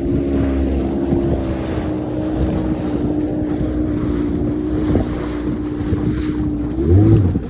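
A boat motor running steadily underway, with wind buffeting the microphone. The motor's pitch eases down slightly about a second in, and near the end there is a brief louder, deeper surge.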